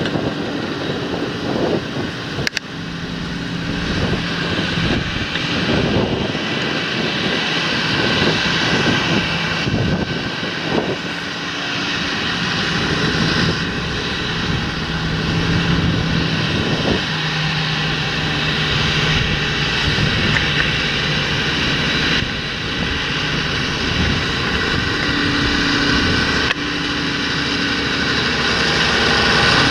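Large John Deere farm tractor's engine running steadily under working load in the field. The sound changes abruptly a few times, as where the footage is cut between shots.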